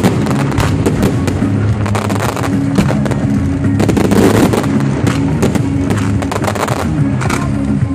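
A rapid barrage of fireworks launching and bursting, with dense cracking and bangs that peak in clusters about two and four seconds in. Steady music plays underneath.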